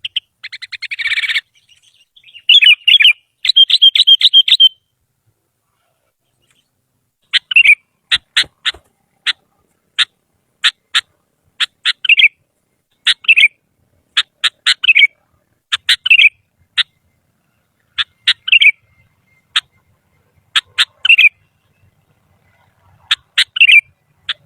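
Sooty-headed bulbul (kutilang) singing loudly and close: a fast trill and bursts of notes at first, then after a short pause a phrase repeated about every two and a half seconds, a few short sharp notes ending in a bubbling warbled note.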